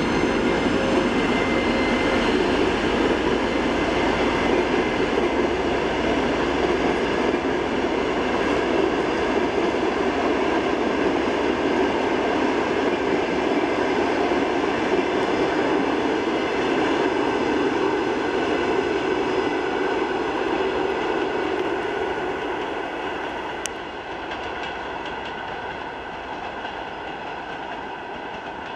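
Passenger coaches of a diesel-hauled train rolling past, steel wheels running over the rails with a clickety-clack. The sound drops noticeably after about 23 seconds as the last coach goes by and the train draws away.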